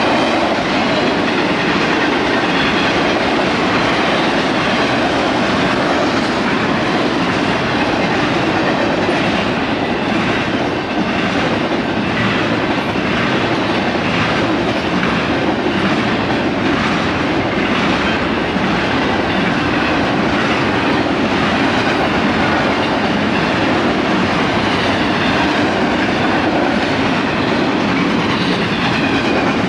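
A long train rolling past close by: a steady loud rumble and rattle of railcars, with the wheels clacking rhythmically over rail joints in the middle stretch.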